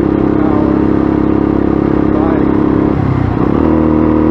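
Motorcycle engine running steadily while riding. Its pitch slides down about three seconds in, then holds steady again.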